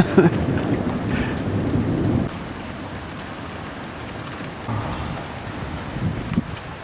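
Steady rain with a low rumble of thunder over the first couple of seconds, which cuts off sharply; the rain carries on evenly after it.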